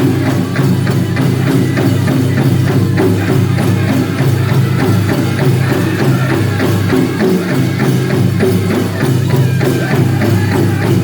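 Powwow drum group singing over a big drum struck in a steady, fast beat, for a dance contest song.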